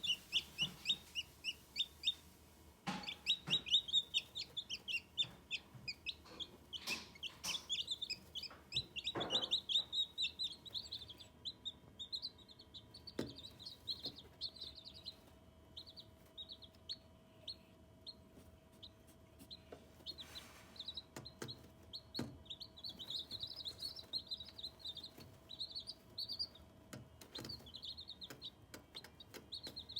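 Young chicks peeping: quick runs of short, high-pitched cheeps, with a few knocks and taps among them.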